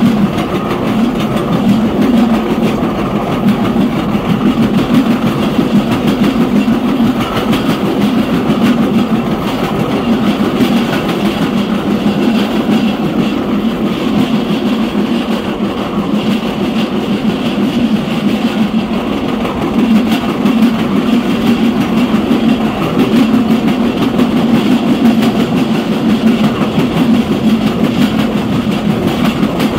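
Railroad passenger car's wheels running on the rails at speed down a grade: a steady, loud rumble with rail clatter.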